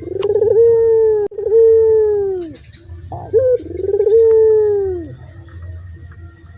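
A puter dove giving three loud, long coos, each drawn out and dropping in pitch at the end. A short rising note comes before the first and the last coo, and the calling stops about five seconds in.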